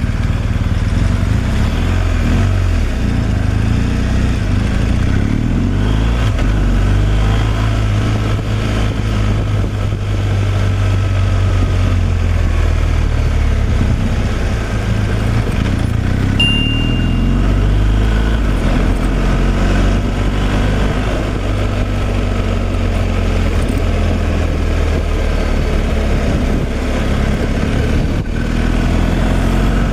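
Semi-truck's diesel engine running steadily under way on the highway, its low drone shifting slowly in pitch with engine speed, over road noise.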